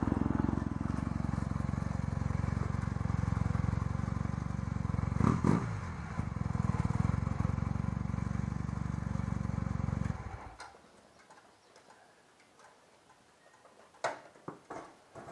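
1986 Honda Nighthawk 450 (CB450SC) air-cooled parallel-twin engine running steadily on a test ride with its new drive chain, with a brief swell about five seconds in. The engine sound cuts off about ten seconds in, leaving a few light clicks.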